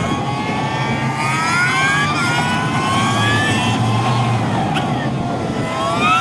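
Toyota GR86's 2.4-litre flat-four engine under hard acceleration: its pitch climbs and drops sharply at two upshifts, about two and three and a half seconds in, then falls away as the car slows and climbs again near the end. Steady road and wind noise runs underneath.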